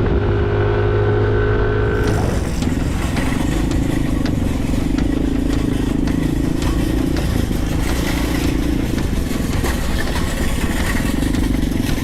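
Motorcycle running under way. About two seconds in, the sound cuts abruptly to a different ride, where the engine note wavers up and down over a steady noise.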